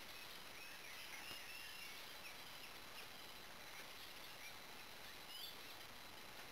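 Faint songbirds chirping and whistling in short, scattered calls over a steady hiss from a trail camera's microphone.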